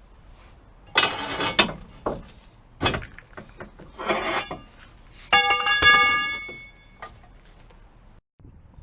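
Metal tools or parts clattering and knocking in several short bursts, then one ringing metallic clang about five seconds in that fades over a second or so.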